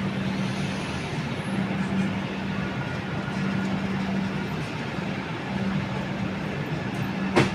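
Steady railway rumble with a low hum that fades in and out, and one sharp click near the end.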